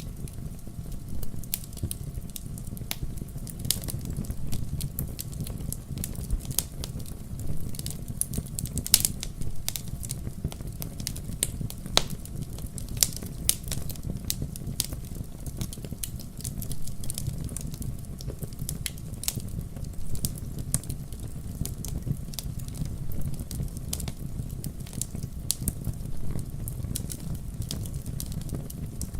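Wood fire burning in a fireplace: a steady low rumble of flames with irregular crackles and sharp pops throughout.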